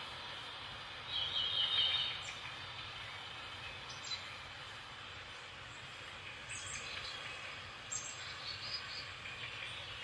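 Birds calling: a rapid trilling call about a second in, then scattered short chirps, over a steady hiss.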